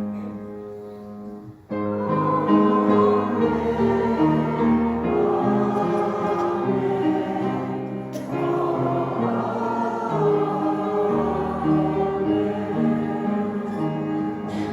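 A choir singing a gospel hymn with accompaniment. A held chord opens it, and the full music comes in about two seconds in.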